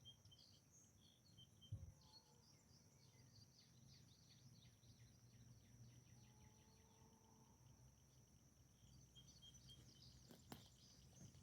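Near silence: faint outdoor ambience with a steady high insect drone and scattered faint bird chirps, and a soft knock about two seconds in.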